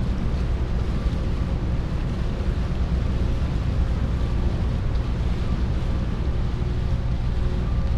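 Car ferry's engines running steadily: a low rumble with a faint steady hum on top, and wind buffeting the microphone.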